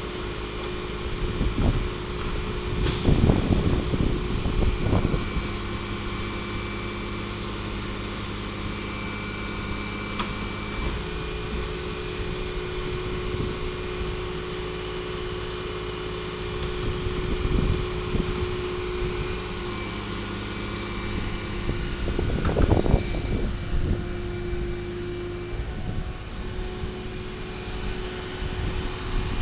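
Diesel garbage truck running steadily, with a short sharp air-brake hiss about three seconds in and several louder surges of noise.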